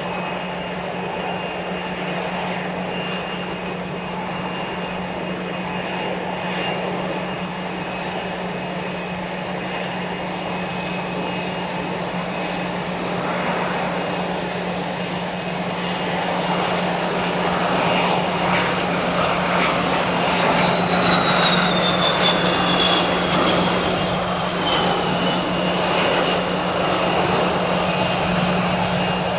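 Gulfstream G150 business jet's twin turbofans on landing approach: steady jet noise that grows louder about two-thirds of the way in, with a high whine gliding down in pitch as the jet passes.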